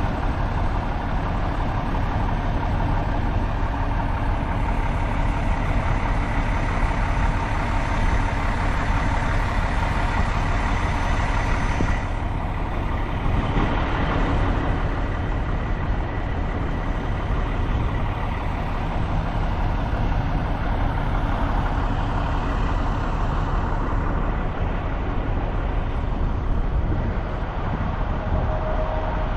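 Volvo VNL 760 semi truck driving at highway speed: a steady hum of engine and road noise.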